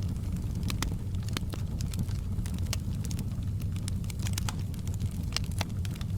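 Wood fire crackling in a fireplace: frequent sharp pops and snaps, several a second, over a steady low rumble of the flames.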